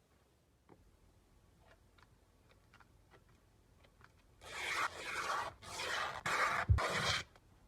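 Beeswax wrap being handled: a few faint taps, then four loud crinkling rustles in quick succession over about three seconds, with a soft thump among them.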